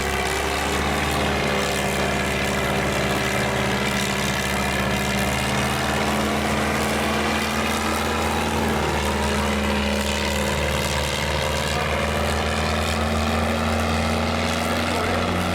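Farm stock pulling tractor's engine running loud and steady, holding an even pitch with a slight shift about nine seconds in.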